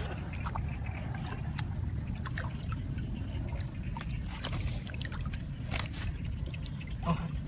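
Water trickling under a steady low rumble, with scattered small clicks and knocks throughout.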